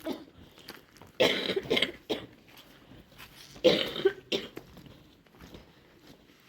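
A person coughing in two short bouts, one about a second in and another about three and a half seconds in.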